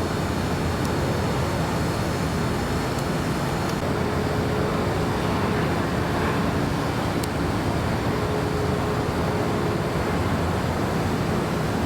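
Steady low roar of jet aircraft engines around an airport, with a faint hum that comes and goes.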